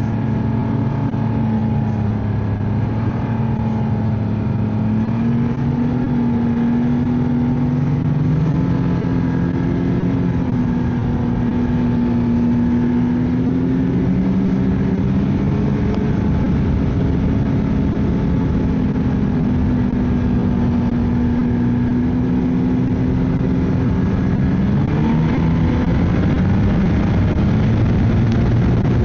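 Ski-Doo snowmobile engine running steadily on the trail, its pitch drifting slowly up and down, with a brief dip and recovery near the end.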